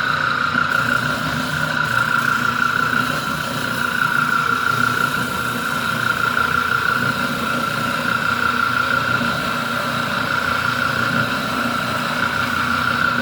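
Spindle sander running steadily with a high, even whine over a low motor hum, smoothing the jigsaw-cut handle openings in the crate's boards.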